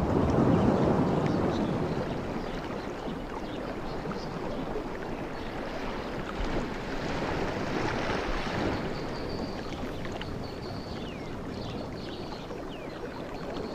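Sea waves washing onto a beach, the surf swelling and ebbing. One wave breaks about a second in, another swells in the middle, and the next builds at the end.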